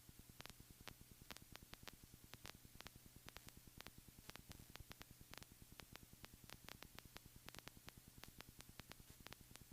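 Near silence on the aircraft's intercom audio feed: a faint steady hum with irregular static clicks, several a second.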